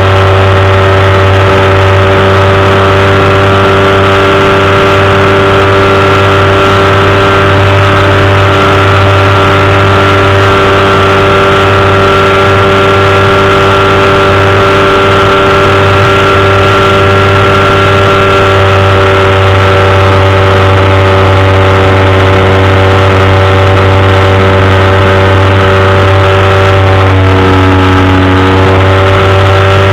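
A powered parachute's engine and propeller running loud and steady in flight, with a brief dip in pitch near the end before it settles back.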